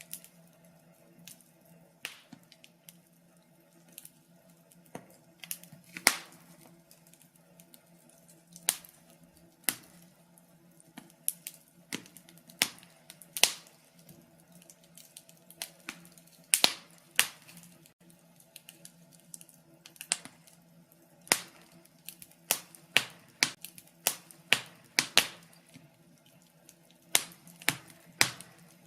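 Wood fire crackling in a fireplace. Irregular sharp pops and snaps, sometimes several close together, one or two much louder than the rest, over a faint steady low hum.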